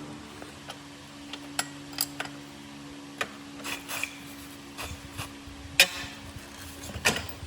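Scattered metal clinks and knocks of hand tools and parts being handled at a workbench, irregular and sharp, the loudest a little before the end, over a steady low hum.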